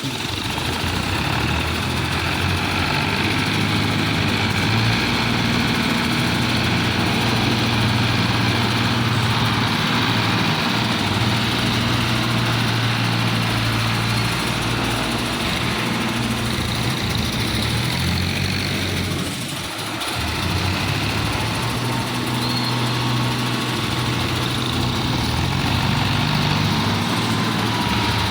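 Tractor engine running steadily with a low, even drone, dipping briefly about two-thirds of the way through.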